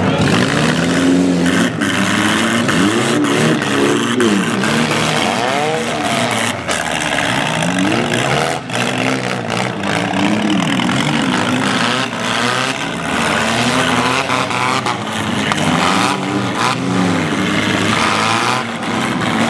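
Several compact demolition-derby cars' engines revving up and down over one another, with a few sharp crashes of cars ramming each other.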